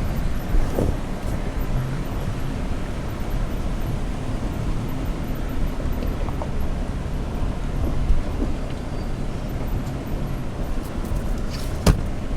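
Toyota Tacoma pickup crawling over a rocky off-road trail: a steady low engine and tyre rumble with faint scattered knocks, and one sharp knock near the end.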